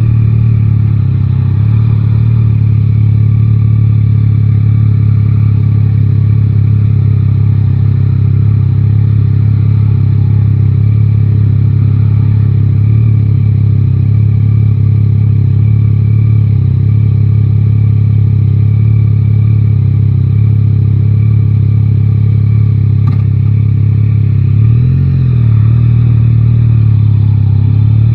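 Yamaha Tracer 9 GT's 890 cc three-cylinder engine running at a steady pitch, with a brief wobble in pitch near the end.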